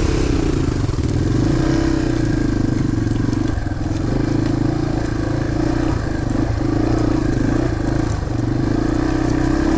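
Dirt bike engine running at low, fairly steady revs while being ridden, with a few brief dips in engine speed.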